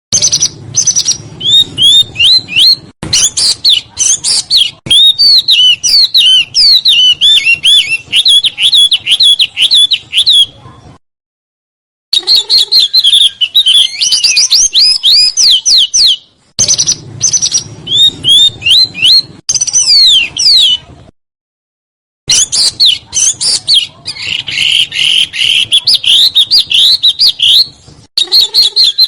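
A small songbird singing a fast song of quick rising and falling chirps and tight rolls. It comes in stretches of several seconds with short silences between, as in an edited recording.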